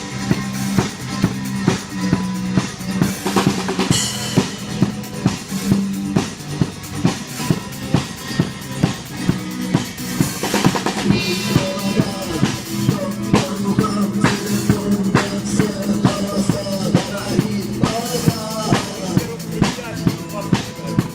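Instrumental intro of a rock song: a drum kit keeps a steady beat, about two strong hits a second with snare and bass drum, over a repeating bass line. There is no singing.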